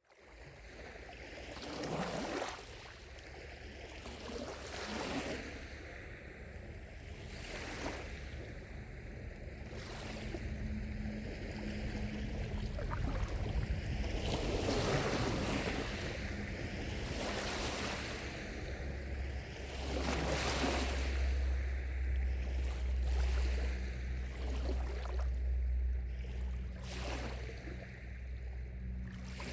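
Small lake waves lapping at the shore, a soft wash every few seconds. A steady low rumble runs underneath and is stronger in the second half.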